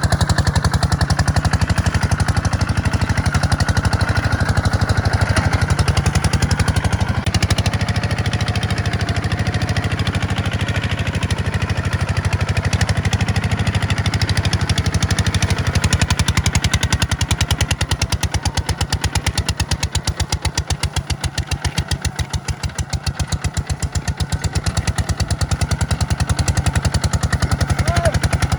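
Kubota tractor's diesel engine running steadily with a rapid, even firing pulse, easing somewhat quieter for a few seconds past the middle before picking back up.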